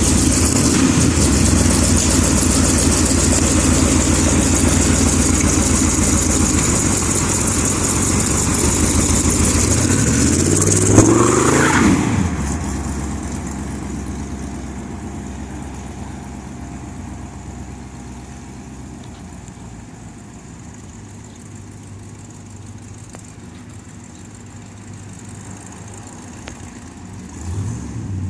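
1946 Dodge hot rod truck's engine running loud, revving up with a rising pitch about ten seconds in, then dropping off and fading steadily as the truck moves away, with a brief swell near the end.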